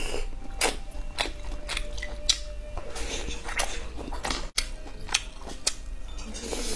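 A person biting and chewing food off bamboo skewers: an irregular string of short crunches and wet mouth clicks, with a brief dropout about halfway.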